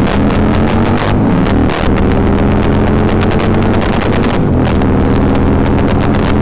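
V-twin cruiser motorcycle engine at full throttle in a drag race, its pitch dropping twice as gears are shifted, with heavy wind buffeting on the microphone.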